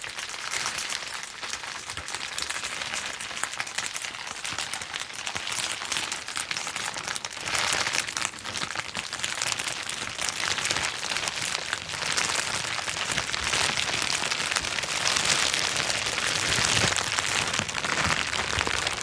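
Plastic bubble wrap being popped in a dense, rapid run of small pops and crackles, with the plastic crinkling. It gets louder and busier about halfway through.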